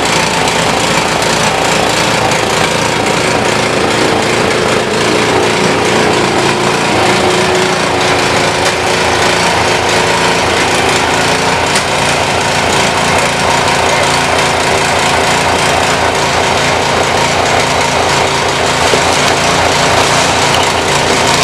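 A small engine running steadily and loudly, with an even drone that does not change.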